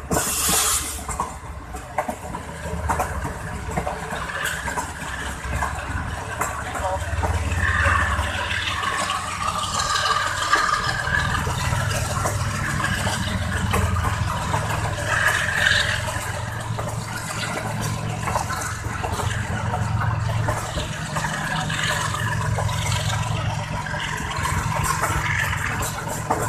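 Passenger train running at speed, heard from an open coach window: steady wheel-and-rail rumble with wind rushing past, and a short gust-like burst right at the start.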